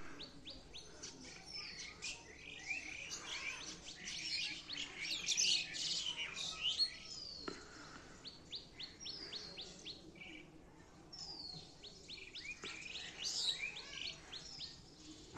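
Small birds chirping and calling, with quick runs of short notes and falling whistled calls overlapping. Busiest about four to seven seconds in, briefly thinner, then busy again near the end.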